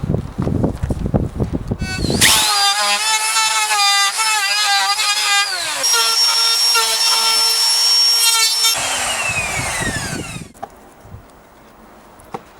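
A few quick rough strokes on wood, then an electric power tool spins up about two seconds in. Its whine sags and wavers as it works the wood, then holds steady running free. About nine seconds in it is switched off, and the whine falls in pitch as it winds down.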